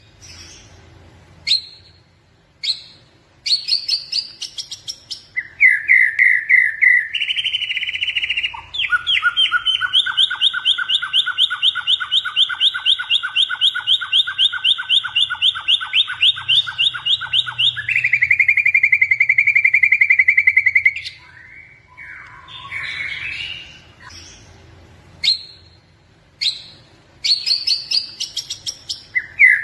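White-rumped shama (murai batu, blorok variety) in full song. Sharp whistled notes and phrases give way to a long, rapid trill through the middle, then a second, lower trill and more varied notes before the opening phrases return near the end.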